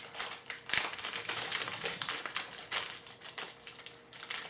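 Quick clicking and crinkling as a trading card pack is opened and its cards are handled and flipped through.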